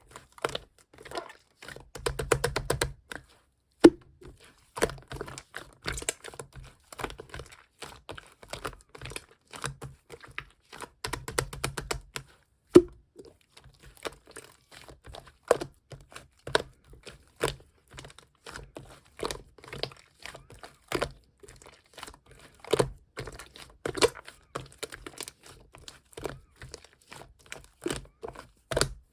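Pink clear slime being pressed and coiled by hand, giving irregular sharp clicks and wet pops, with short runs of quick crackling about two seconds in and again about eleven seconds in.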